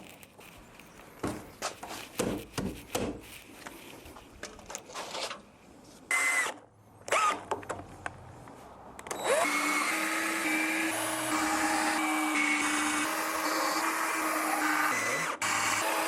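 Knocks from handling, then a power drill/driver running steadily for about six seconds, backing out a screw.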